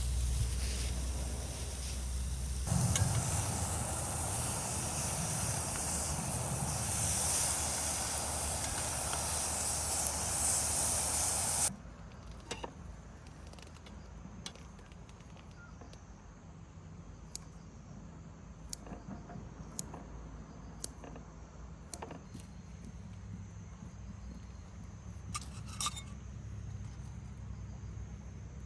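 A loud, steady hiss that cuts off suddenly about twelve seconds in, followed by quiet outdoor ambience with a few faint scattered clicks.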